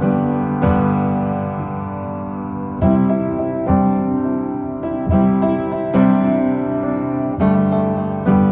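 Background music: piano (or electric piano) chords struck about once a second, an instrumental passage between sung lines.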